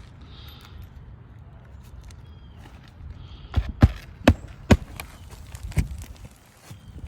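Five sharp knocks, irregularly spaced, about halfway through, over a low steady background rumble.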